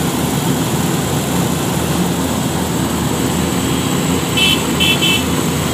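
Heavy truck engines running steadily, with a quick run of three short, high beeps about four and a half seconds in.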